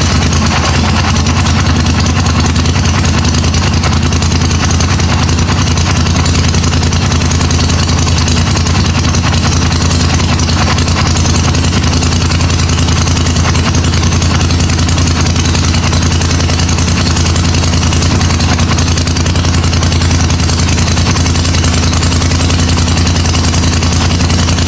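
Polaris Sportsman XP 1000 ATV's twin-cylinder engine idling steadily through an RJWC Krossflo aftermarket exhaust, still warming up after a cold start following a month unused.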